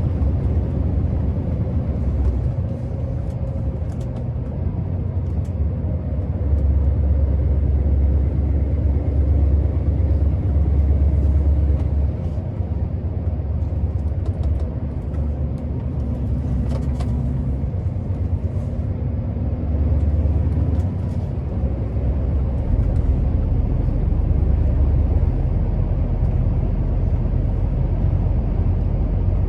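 Scania R650's V8 diesel engine running steadily as the truck is driven. Its low rumble swells and eases several times as the load changes, loudest from about six to twelve seconds in and again in the last third.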